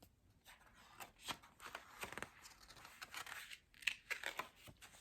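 Faint paper rustling with scattered soft clicks: the pages of a picture book being handled.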